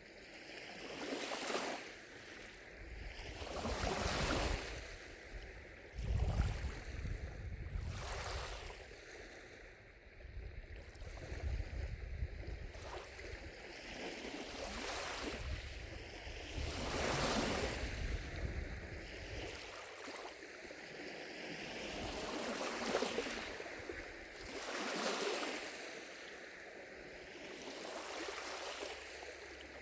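Gentle lake waves lapping on the shore, each lap a short wash of water every couple of seconds. A low wind rumble on the microphone comes in about six seconds in and fades out about twenty seconds in.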